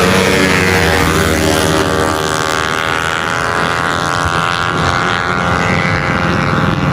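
Tuned 155cc automatic racing scooter engine running hard at high revs on a drag run. Its pitch sags a little in the first second or two, then holds steady.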